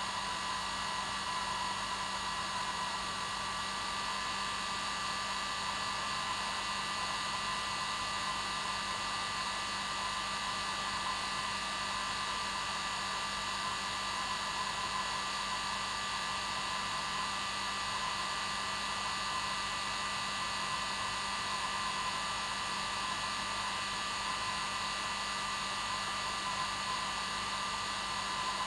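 Hair dryer running steadily on its normal setting: an even rush of air with a constant motor whine that never changes.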